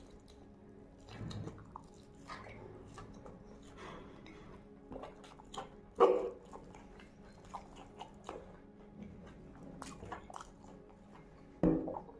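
Close-miked eating sounds of mutton leg and rice: wet chewing with many small mouth clicks, and two louder bites, one about six seconds in and one near the end.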